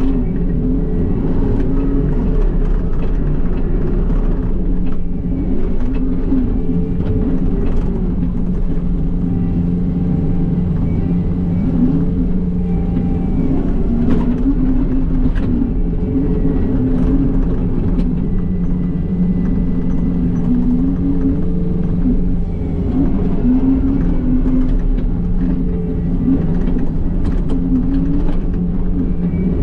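John Deere 333E skid steer's diesel engine running steadily under working load, with faint clanks and knocks from the grapple bucket as it picks up debris.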